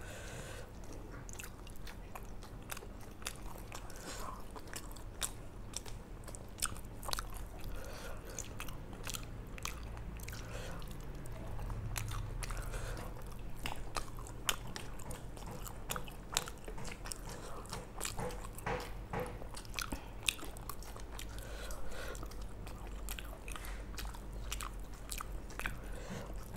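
Two people chewing and eating fried rice and chicken with their fingers: many short, soft mouth clicks and smacks throughout, over a low steady hum.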